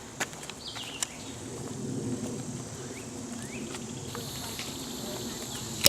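Insects buzzing steadily in the forest, with a second high buzz joining about four seconds in. A few sharp clicks and a couple of short bird chirps sound over it.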